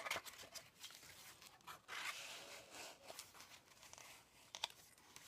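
Faint rustling and light clicks of paper as the pages of a handmade journal are handled and turned, with a longer rustle about two seconds in.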